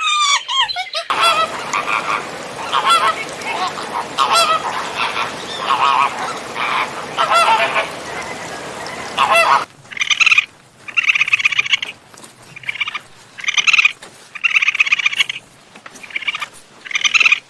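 Birds calling: first a flock with many overlapping calls over a noisy background, then, from about ten seconds in, a series of separate loud calls at nearly two a second.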